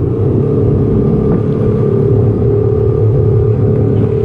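Boat motor running steadily under way, a loud even drone with a steady hum.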